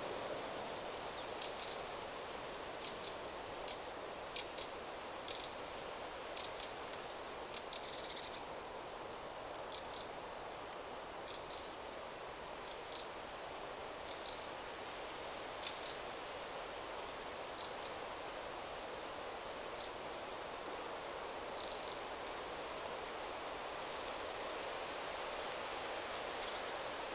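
A small songbird repeating short, high-pitched call notes, often in quick pairs, about once every second or two, over a steady hiss of wind in the trees.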